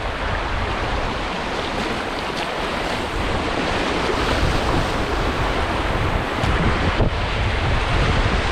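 Rushing river water, a steady hiss, with wind buffeting the microphone in low rumbles.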